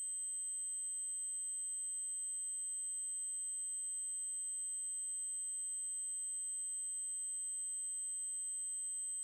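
Synthetic 8192 Hz triangle-wave tone, a single high electronic pitch held steady and unchanging.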